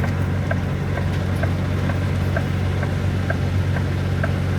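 Semi truck's diesel engine idling steadily, heard in the cab, with the turn-signal flasher clicking in a regular tick-tock about once a second.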